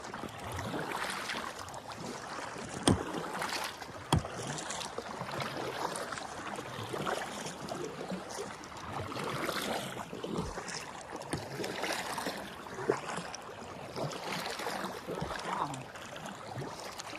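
Water sloshing and splashing around a small paddled boat, with irregular paddle strokes. Two sharp knocks, about three and four seconds in, stand out as the loudest sounds.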